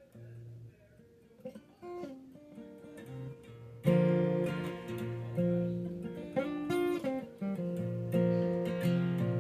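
Acoustic guitar playing a song's intro: a few soft picked notes, then louder strummed chords from about four seconds in.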